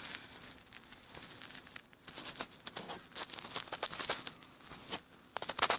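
Faint, irregular crackling and rustling, with a louder cluster of crackles near the end.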